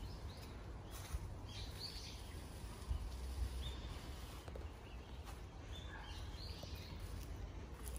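Small birds chirping in short calls every second or so among trees, over a steady low rumble.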